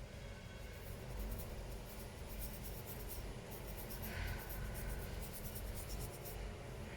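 Faint, rapid scratching strokes on a hard surface.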